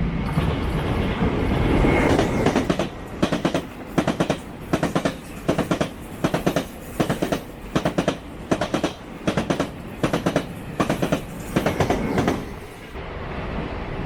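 Train passing close by: a rising rumble, then steady, evenly spaced groups of loud clacks as its wheels cross the rail joints, dying away about twelve seconds in before a rumble builds again near the end.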